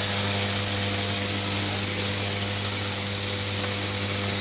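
Automatic induction annealing machine running steadily: a constant electrical hum with a strong low drone and a thin high whine over a broad hiss.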